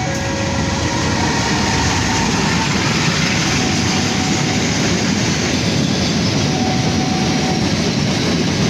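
A train passing close by: a loud, steady rumble of wheels on the rails with a few faint, thin wheel squeals.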